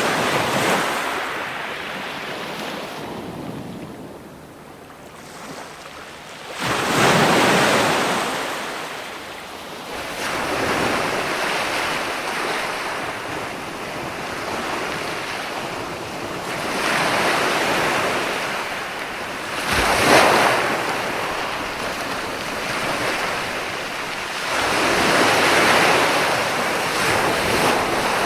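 Ocean waves breaking and washing ashore in rushing surges that swell and fade every few seconds, with one sharper crash about twenty seconds in.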